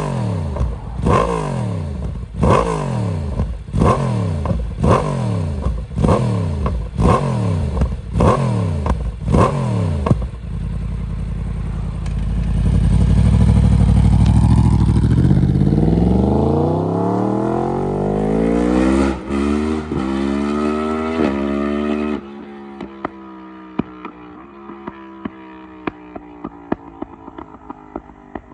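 Yamaha MT-10 with an Akrapovic exhaust, its crossplane inline-four blipped hard about once a second for ten seconds, then pulling away under full throttle with the pitch climbing through several quick upshifts. About 22 seconds in it turns much fainter, the revs falling with crackles and pops from the exhaust on the overrun.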